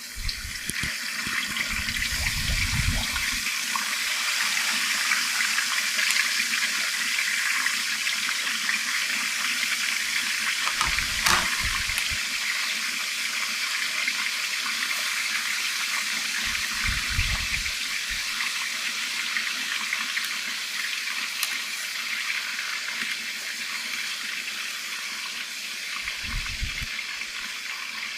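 Chicken thighs deep-frying in a pot of very hot oil, a dense steady sizzle that swells as the frying gets going and eases slightly towards the end. A few brief low knocks sound along the way.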